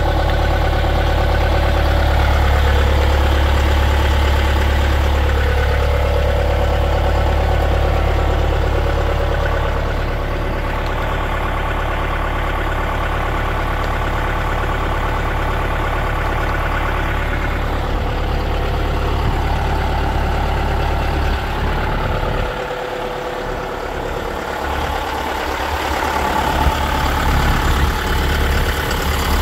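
John Deere 6110 tractor's diesel engine idling steadily, with the sound easing off for a few seconds past the two-thirds mark before coming back.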